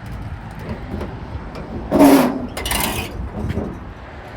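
Metal drawers of a truck service body's drawer pack being slid open, two scraping rubs about two seconds in, the first the louder.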